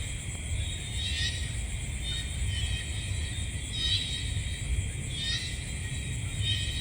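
Night-time nature ambience: a steady high insect drone, with short trilled chirping calls coming back every second or two, over a constant low rumble.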